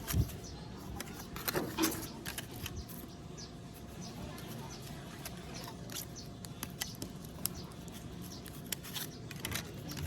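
Scattered small clicks and taps of hand tools working on a smartphone, over a faint steady hum.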